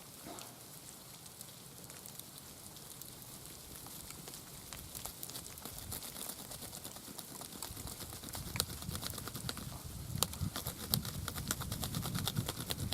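Rapid, irregular ticking and rustling of a turkey wing feather being cut and trimmed to fletching length, the ticks getting denser and louder toward the end.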